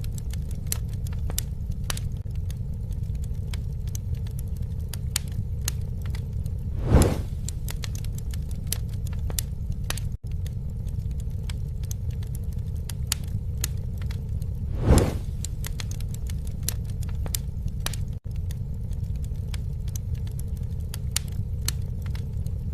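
Campfire crackling: scattered sharp pops and snaps over a steady low rumble of the flames. A louder swell comes about seven seconds in and again about fifteen seconds in.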